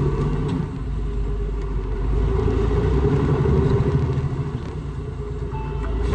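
Semi-truck engine and road noise heard from inside the cab while driving: a steady low rumble that eases off in the middle and builds again near the end.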